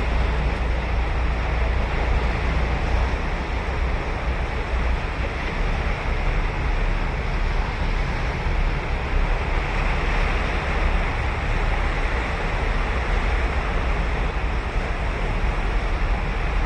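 Ocean surf washing onto a beach in a continuous hiss, swelling slightly about two-thirds of the way through, over a steady low rumble of wind on the microphone.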